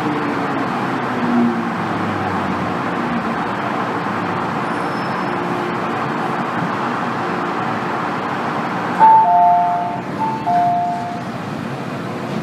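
Cabin noise of an MTR M-Train metro car running on the line, with a faint falling whine in the first moments. About nine seconds in, a two-note high-then-low electronic chime sounds twice.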